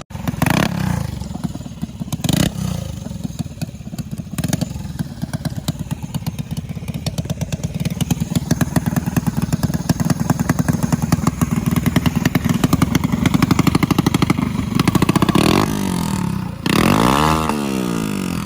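Mini drag bike engine running hard, its firing pulses speeding up and growing louder as it accelerates. A few sharp knocks come early. Near the end the engine note sweeps up and down in pitch.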